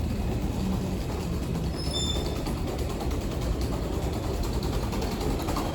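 Subway train and platform noise: a steady low rumble, with a brief high-pitched squeal about two seconds in.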